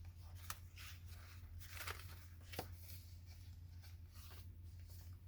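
Paper pages and inserts of a handmade junk journal being handled and turned: soft rustles and a few light clicks, over a steady low hum.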